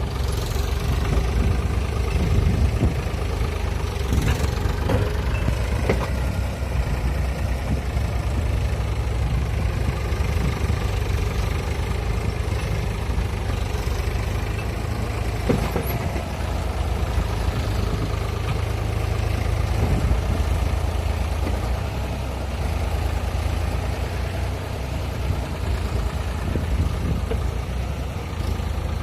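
Tractor diesel engine running steadily, with a few short knocks over it.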